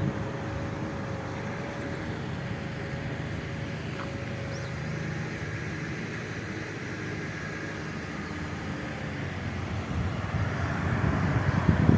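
Steady running noise of a moving vehicle, growing louder and rougher near the end.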